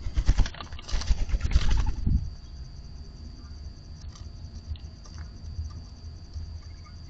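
A bird scuffling and pecking close to the microphone at a feeder: a burst of uneven pattering taps and thumps for about two seconds, then only faint background.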